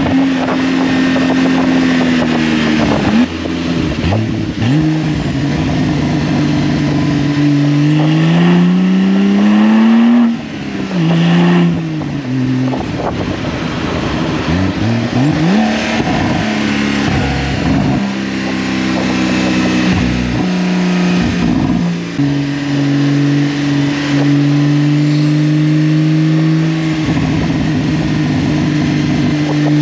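Porsche 992 twin-turbo flat-six running through a titanium aftermarket exhaust with stock downpipes, accelerating in repeated pulls. The pitch climbs and then drops sharply at each upshift, about half a dozen times.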